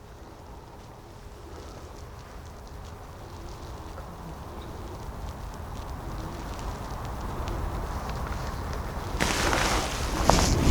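Wind buffeting the microphone: a low rumble that builds steadily, with a louder rush of wind near the end.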